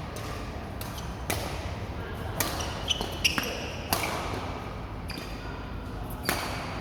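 Badminton rackets striking a shuttlecock in an irregular series of sharp hits, with a few short high squeaks between them.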